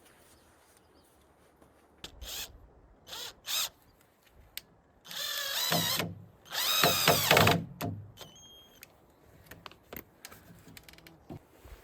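A power drill running in a few short spurts, then in two longer runs of about a second each, its pitch wavering as it works.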